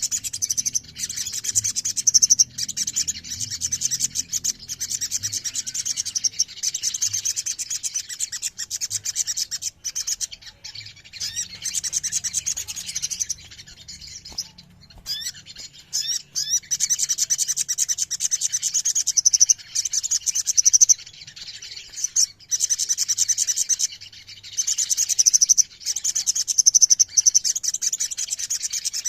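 Sogon (little spiderhunter) singing: long runs of fast, high-pitched rolling trills, broken by a few short pauses, with some separate rising and falling notes in the middle.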